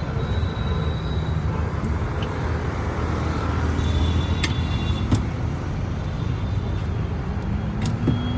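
Steady rumble of road traffic, with a few short sharp clicks.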